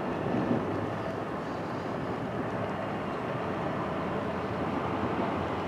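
Steady, even rumble of a train running on in the distance after leaving the station.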